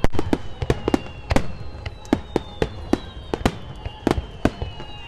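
Aerial fireworks bursting in a rapid, irregular barrage of sharp bangs, several a second.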